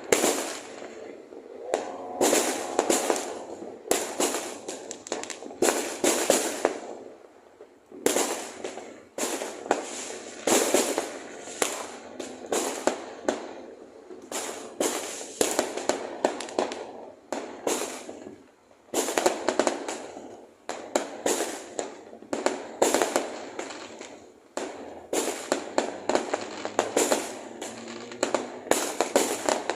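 Fireworks exploding in a dense, irregular barrage of bangs and crackles, several a second, with short lulls about eight and nineteen seconds in.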